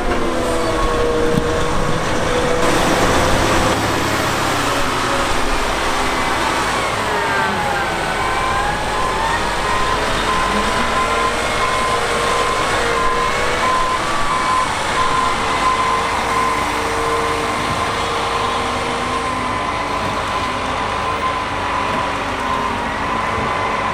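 Heavy farm machinery's diesel engine running steadily under load, its pitch dipping briefly and recovering about a third of the way in.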